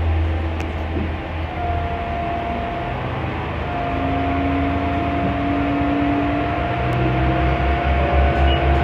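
Diesel railcar running along the line, heard from inside: a heavy low rumble of engine and wheels on rail with a thin steady whine held over it, growing a little louder toward the end.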